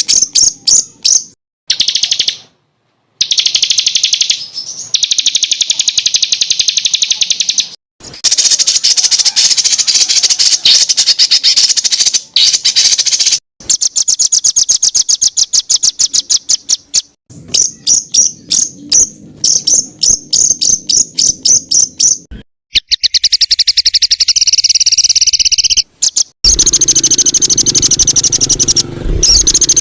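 Songbirds singing rapid, shot-like 'tembakan' trills: fast runs of repeated high notes, spliced together with abrupt cuts between them.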